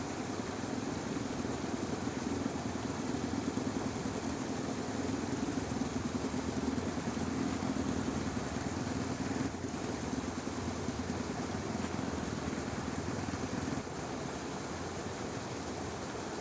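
A motor hums steadily over a broad, even hiss and cuts off abruptly about fourteen seconds in.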